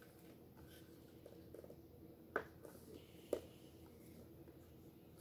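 Toy garbage truck tipping a small bin into its hopper: faint rattling, then two sharp clicks about a second apart.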